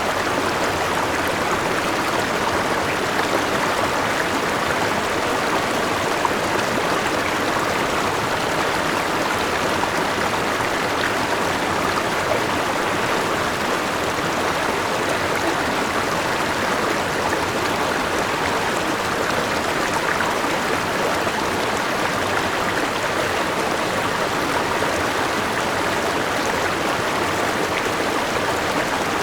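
Forest river rushing over a small waterfall: a steady, even rush of water.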